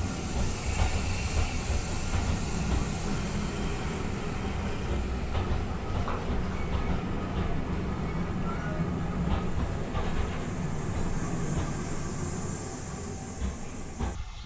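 Train running on the rails: a steady rumble with scattered clicks from the wheels, cut off abruptly just before the end.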